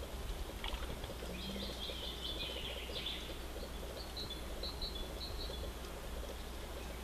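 Small songbirds singing outdoors over a steady low rumble: a short warbled phrase about a second in, then a run of quick, high repeated notes around four seconds in.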